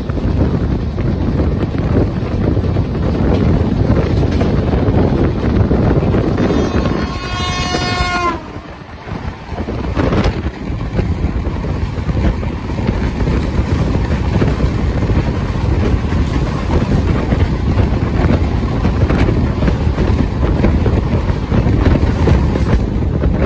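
The 19307 Indore–Chandigarh Express running at speed: a steady rumble with wind on the microphone. About seven seconds in, a train horn sounds for about a second and a half. The noise dips briefly just after.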